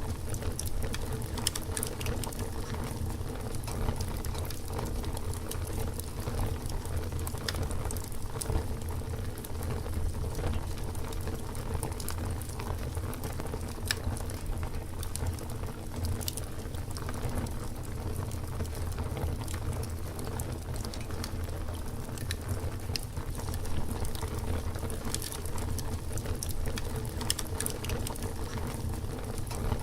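Campfire burning, crackling continuously with frequent sharp pops and snaps over a steady low rumble.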